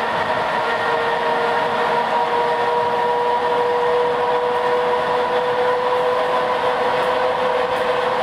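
Interior running noise of a suburban electric train at speed: a steady rolling rumble of the wheels on the track, with a steady whine that rises slightly in pitch.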